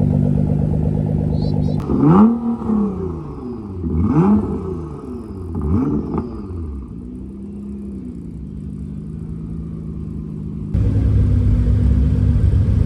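Car engine idling, then revved three times about two seconds apart, each rev rising and falling in pitch, before settling back to a quieter idle. About eleven seconds in, it gives way abruptly to a louder, lower engine running steadily.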